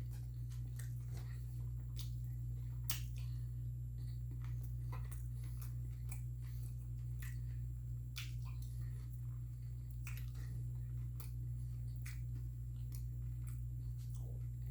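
A person chewing and biting into a fried fish sandwich, with wet mouth clicks at irregular intervals. A steady low hum runs underneath.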